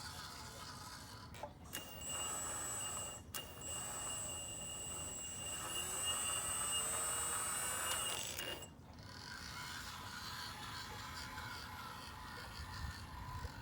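Hydraulic pump and motor of a MAGOM HRC 330D radio-controlled excavator running with a steady high whine from about two seconds in until it cuts off near nine seconds. A sharp click breaks the whine at about three seconds.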